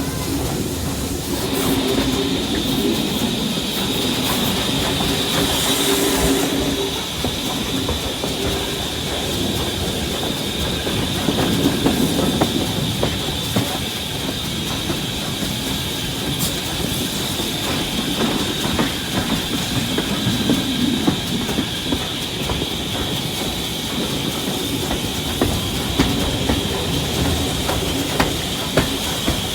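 Heritage train running along the track: a steady rumble with wheels clicking over rail joints, and a steady high-pitched tone that starts about a second and a half in.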